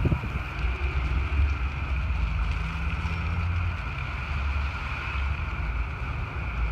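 Wind buffeting the microphone in an uneven low rumble, over a steady higher background whir.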